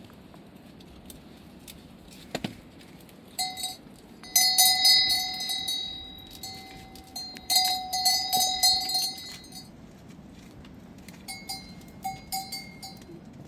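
A metal bell clanking and ringing in irregular bursts, starting about three seconds in and loudest around the middle, with a few fainter rings near the end.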